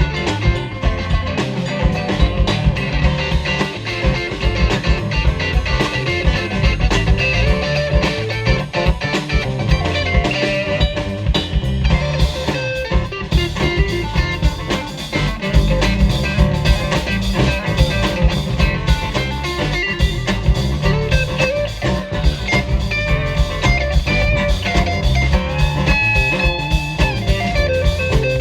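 Live band playing an instrumental break, with guitar prominent over bass and drums.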